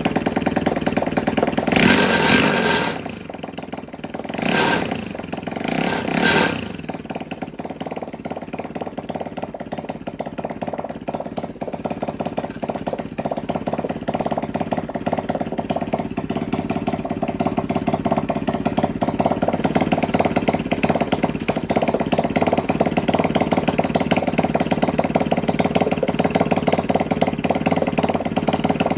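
150cc GPX single-cylinder engine running on a bench after a new stator and flywheel: revved up and back three times, then settling into a steady idle with an even pulse.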